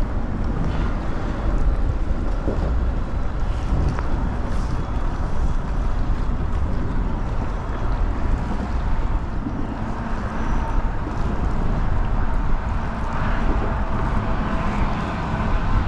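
Steady wind buffeting the microphone, a heavy low rumble, with choppy water around a kayak on a windy day with swells.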